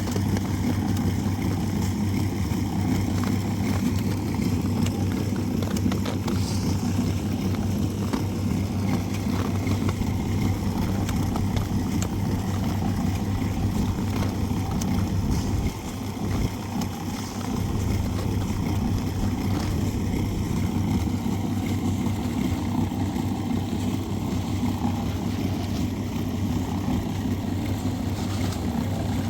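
A steady engine drone that runs without a break, dipping briefly about halfway through.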